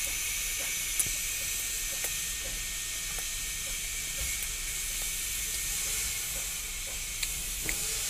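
Steady high hiss, with faint soft clicks of a man chewing a samosa.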